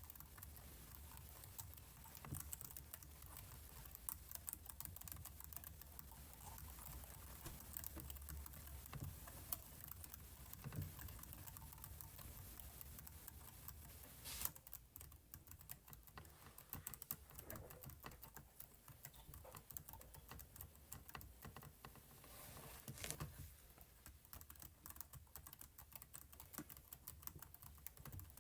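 Faint computer keyboard typing: a steady, irregular run of soft key clicks. A low hum underneath stops about halfway through.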